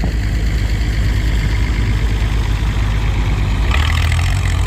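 Antique farm tractor engine running at idle, a steady low hum that grows louder and drops in pitch a little near the end.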